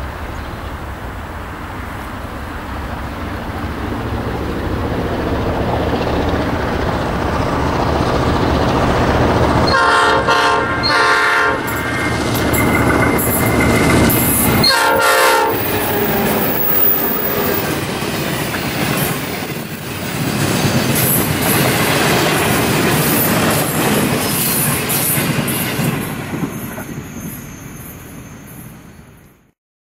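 Diesel locomotives 4204, an ALCo-engined NSW 42 class, and B65 running past with a train. Their engines rumble and the wheels clatter on the rail joints, the sound building up and then fading away. The locomotive horn sounds twice, at about ten seconds in and again near fifteen seconds.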